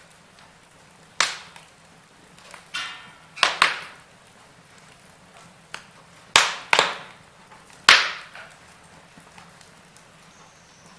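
Wood fire in a fireplace crackling: a run of sharp pops and snaps, with a brief hissing crackle about three seconds in, over a faint steady hum.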